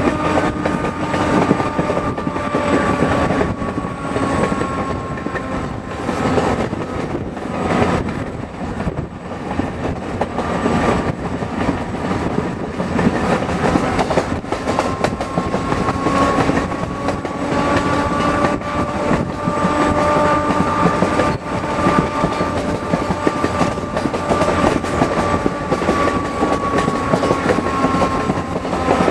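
Ride noise of a diesel-electric passenger train heard from aboard: a steady rumble with wheels clicking over the rails, and a held whine that drifts slowly in pitch.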